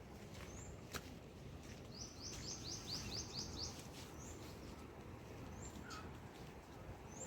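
A small bird chirping: short high chirps every second or so, with a quick run of about seven falling chirps about two seconds in, over a low steady background hum. A single sharp tick about a second in.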